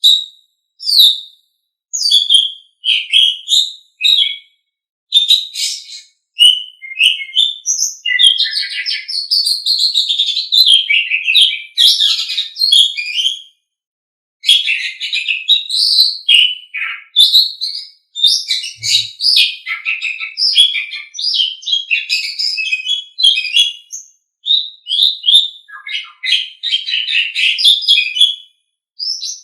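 Jalak suren (Javan pied starling) singing: short separate notes at first, then long fast runs of song broken by brief pauses.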